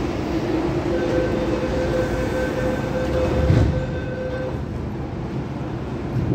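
CAF-built MTR Tung Chung Line train running on the line: a steady rail rumble with a level whine that comes in about a second in and fades out after four seconds. There is a single thump about three and a half seconds in.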